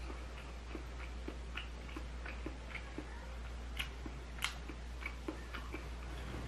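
Close-up chewing of sticky tteokbokki rice cakes in sauce: a run of short wet mouth clicks, about two or three a second, the loudest about four and a half seconds in, over a steady low hum.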